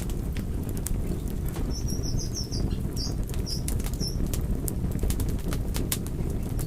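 Fire burning with a steady low rumble and scattered sharp crackles and pops. A run of short, high chirps sounds from about two to four seconds in.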